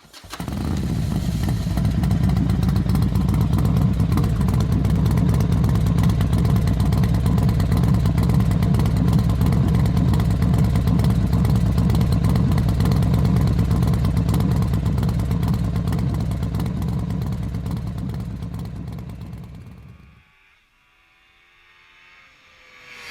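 Motorcycle running steadily at speed, engine and wind noise loud on the microphone, fading out about twenty seconds in. A quieter passage of gliding music tones with a whoosh follows near the end.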